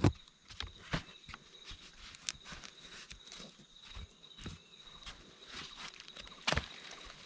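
Irregular rustles, snaps and knocks of someone moving and working in forest undergrowth, with a sharp knock at the start and another near the end, over a faint steady high insect drone.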